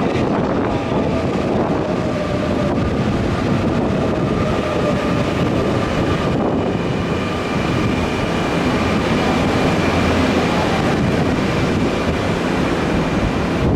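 Nankai Railway electric train moving alongside the platform: a steady rumble of wheels on rail with a faint motor whine that slowly falls in pitch over the first few seconds.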